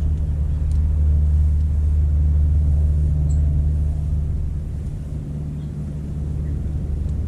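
A steady low mechanical hum, like a motor or machine running, that eases off about four to five seconds in.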